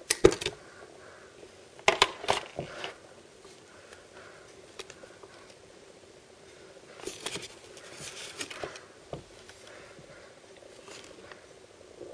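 Hands handling and opening surprise packaging: sharp clicks and taps at the start and again around two seconds in, then crinkling of plastic or foil wrapping around seven to nine seconds in.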